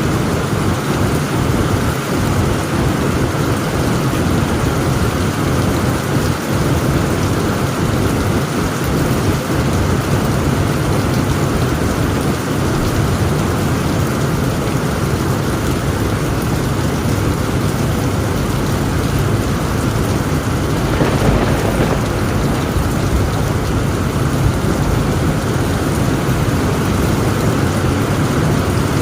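Heavy rain falling on a tent roof in a thunderstorm: a steady, dense hiss of rain over a constant low rumble of thunder, with one brief louder swell about three-quarters of the way through.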